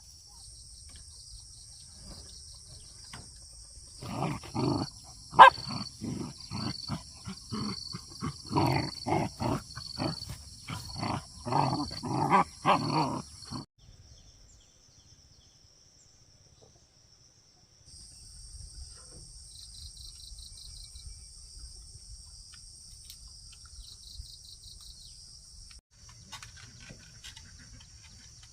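A steady, high-pitched insect chorus drones throughout. From about four seconds in, an animal calls loudly for roughly ten seconds in many short, irregular bursts. The sound then cuts to near silence for a few seconds before the insect drone returns.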